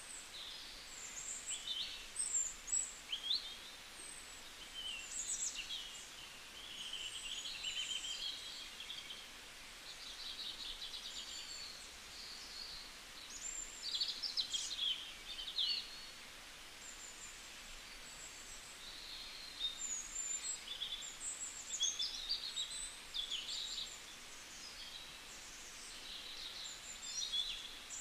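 Small birds chirping, quick high-pitched notes coming in short spells with brief pauses between.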